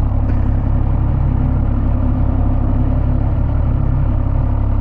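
Triumph Speed Triple 1200 RS's inline three-cylinder engine idling steadily, a low, even rumble.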